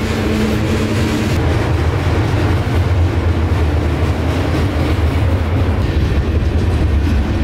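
Freight train of covered hopper and autorack cars passing at close range: the steady, loud noise of steel wheels rolling on the rails.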